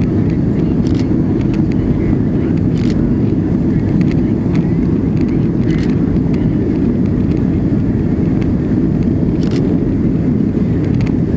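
Steady low roar of an airliner in flight, heard from inside the passenger cabin, with a few faint clicks.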